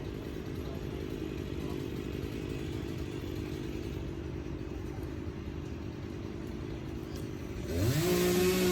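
An engine running steadily with a low rumble, then revving up sharply near the end and holding at a higher pitch.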